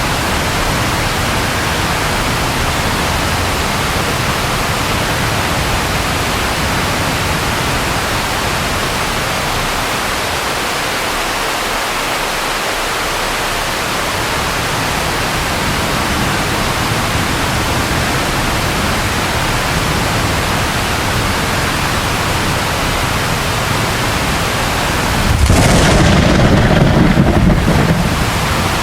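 Steady, even rain hiss, with a loud rumble of thunder lasting about two seconds near the end.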